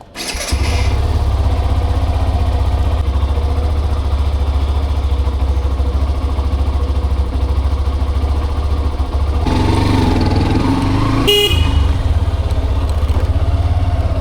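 Hero Xtreme 125R's single-cylinder engine running on a city ride, mixed with a steady wind rumble on the helmet-mounted microphone. Near the end a vehicle horn honks twice in traffic.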